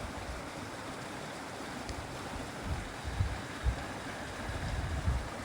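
Mountain river rushing steadily. About halfway through, wind buffets the microphone in low gusts.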